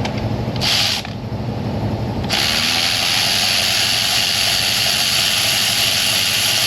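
Cordless ratchet briefly spinning, then running steadily from about two seconds in as it backs out a spark plug. Its battery is running low: the tool sounds like the battery is dying.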